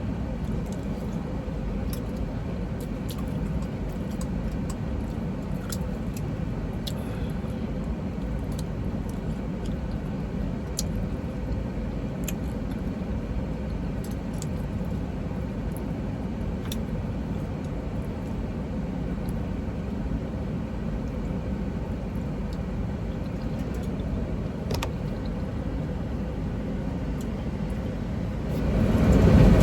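Steady low rumble of an idling semi-truck heard from inside its cab, with a few faint light clicks scattered through it. Near the end the rumble grows suddenly much louder.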